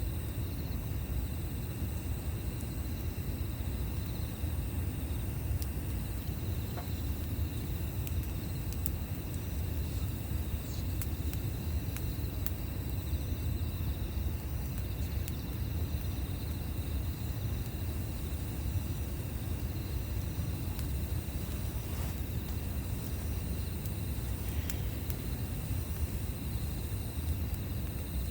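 Insects, crickets by the sound, trilling in steady high-pitched tones, the highest one stopping and starting again, over a low steady rumble. A few faint sharp crackles from the campfire are scattered through it.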